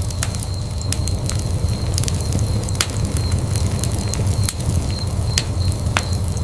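Wood fire in a fireplace crackling: irregular sharp pops and snaps, a dozen or so, over a steady low rumble of the flames.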